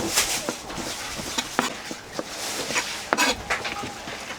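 A knife working fish on a cutting board while it is filleted for sashimi: scraping strokes and irregular sharp knocks, the loudest a cluster about three seconds in.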